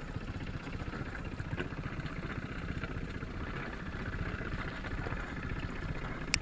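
Small sailing boat's engine running steadily under way with a fast, even low chugging, and a sharp click near the end.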